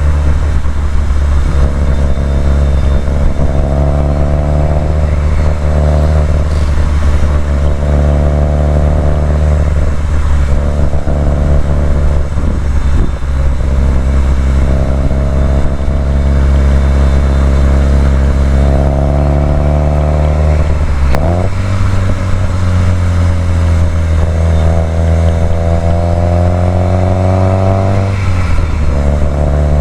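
Subaru WRX STI's turbocharged flat-four engine driving a twisty road, its revs repeatedly climbing under throttle and falling off between corners. About two-thirds of the way through the pitch drops sharply and picks up again, then makes a long steady climb before falling away near the end.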